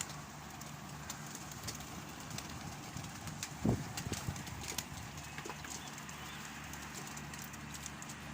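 Domestic pigeons cooing softly in a loft, with scattered light clicks and one louder low coo about four seconds in.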